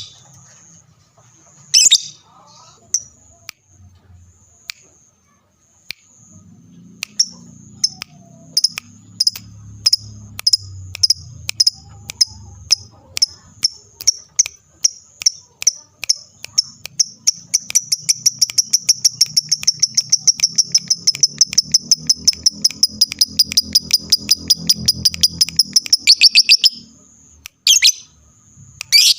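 Lovebird calling: scattered sharp chirps that come faster and faster and run into a long, fast, even chatter, the 'ngekek' of a lovebird in full song, lasting about nine seconds before it stops abruptly. Two more single calls follow near the end.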